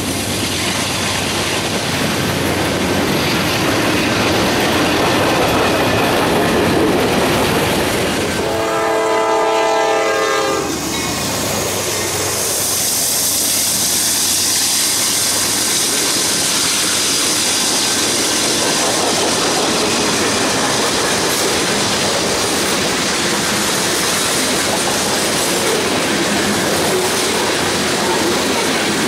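Freight train rolling past close by, wheels and cars making a steady rumble on the rail. About a third of the way in, a train horn sounds a chord for about two seconds. Then locomotives and covered hoppers roll by with steady wheel-on-rail noise and a strong high hiss.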